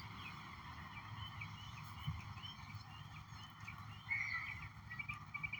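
Faint, rapidly repeated short chirping calls from a small animal, about three or four a second, with a brief louder burst about four seconds in, over a steady low hum.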